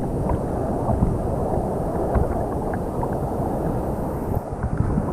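Steady rushing of a waterfall's falling water, a dense even noise with faint small splashes.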